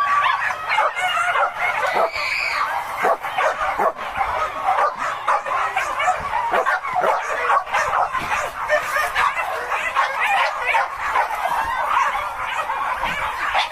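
A pack of hunting dogs yelping and baying without a break, many voices overlapping: dogs in full cry chasing a wild boar.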